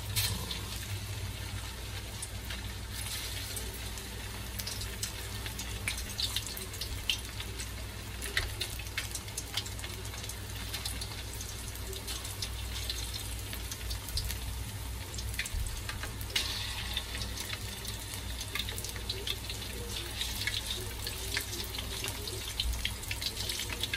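Flour-coated chicken pieces deep-frying in hot oil in a wok: a steady sizzle full of sharp crackles, flaring up in louder stretches as new pieces are laid in.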